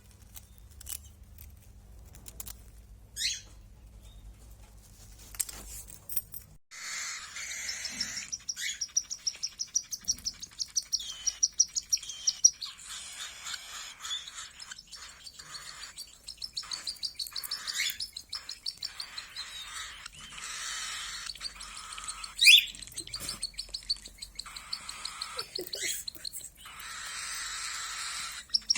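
A pet canary singing. A few scattered chirps come first, then from about a quarter of the way in a long song of rapid rolling trills and warbles, with one loud sharp rising note late on.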